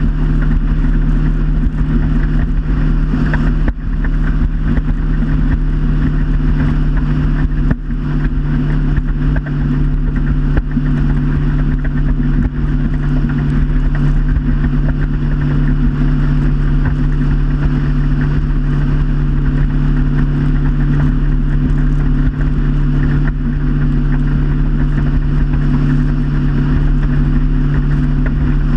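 Motorboat engine running steadily at a constant pitch while under way, with a steady hiss over it and two brief dips early on.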